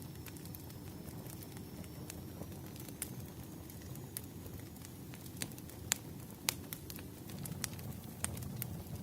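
Wood fire crackling in a fireplace: a steady low rumble of flames with scattered sharp pops and snaps, the loudest pair about six seconds in.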